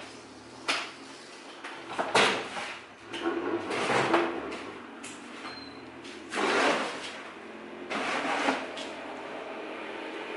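Several short scraping and knocking noises, a second or two apart, over a faint steady background hum.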